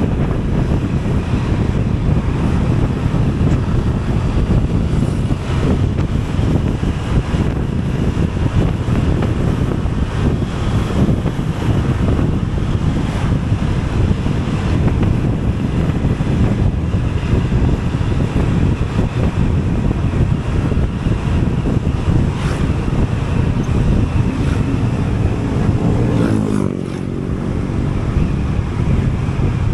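Wind buffeting the microphone over the steady road and engine noise of a moving vehicle. About four seconds before the end the noise dips briefly and an engine tone rises.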